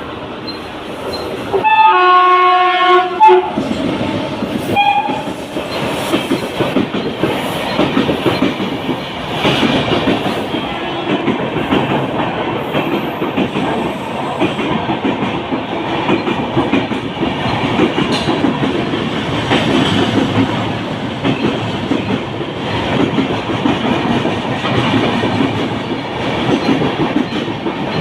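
Train horn sounding a long blast about two seconds in and a short one a few seconds later, then a train running past with a steady rumble and clickety-clack of wheels over the rail joints.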